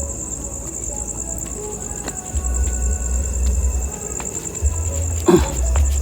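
Crickets trilling steadily at a high pitch, over intermittent low rumbling on the microphone, with a brief knock a little after five seconds in.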